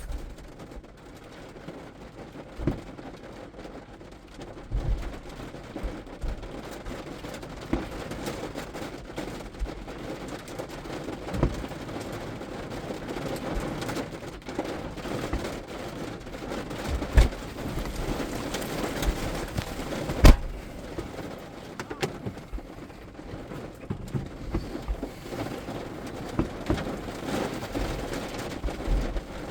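Steady heavy rain of a thunderstorm, with scattered sharp knocks and two louder cracks about 17 and 20 seconds in.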